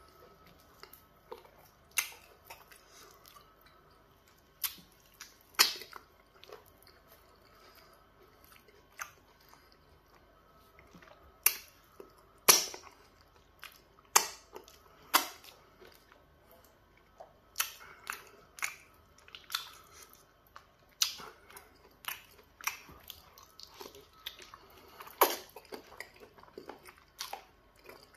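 Close-up mouth sounds of eating soft pounded yam fufu with peanut butter soup by hand: wet chewing, with irregular sharp lip smacks and sucking clicks as soup is licked off the fingers.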